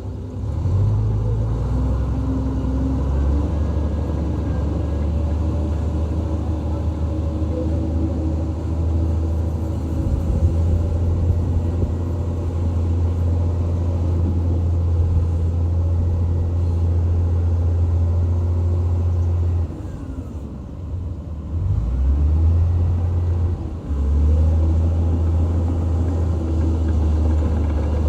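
Diesel engine of a heavy earthmoving machine (bulldozer or excavator) running under load, a deep steady drone. It drops for a couple of seconds about two-thirds of the way through, then picks back up.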